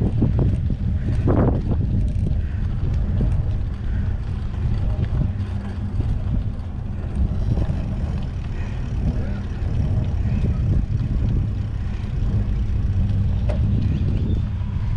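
Wind buffeting the microphone while cycling: a steady low rumble, with a few brief knocks in the first second or two.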